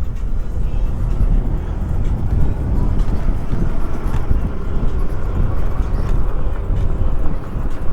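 Steady wind rush on the microphone and tyre rumble from a Super73 electric bike being ridden.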